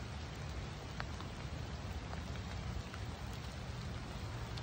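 Steady rain falling on forest foliage and ground: an even hiss with a few faint scattered ticks.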